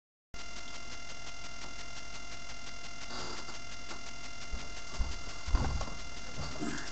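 Steady electrical hum and whine, a stack of steady tones, starting abruptly just after the start, with a few soft knocks and bumps in the second half.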